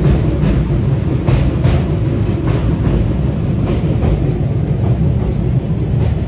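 Passenger train rolling over a riveted steel girder bridge: a steady, loud low rumble of wheels on rails, with irregular clacks from the wheels.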